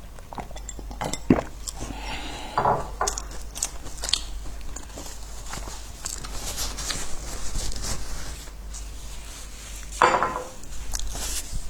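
Biscuits being bitten and chewed close to the microphone: irregular sharp crunches and crackles, louder about two to three seconds in and again near the end, with a few light clinks like dishes or cutlery.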